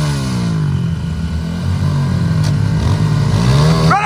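An off-road vehicle's engine revving: its pitch drops over the first second, holds low, then climbs again near the end.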